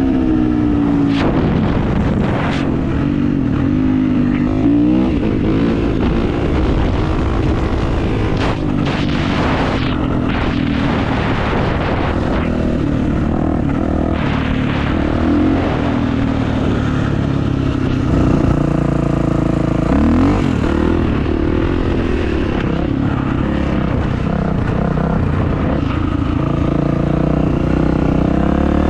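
Kawasaki motocross bike's engine running under way, its pitch rising and dropping again and again as it is revved and shifted through the gears. Bursts of rushing noise come through in the middle stretch.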